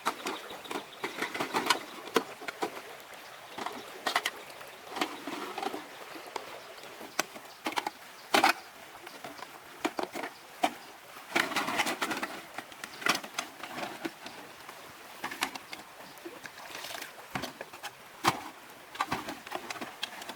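Irregular sharp clicks and knocks, a few louder than the rest, with rustling and scraping in between, as of objects being handled and set down.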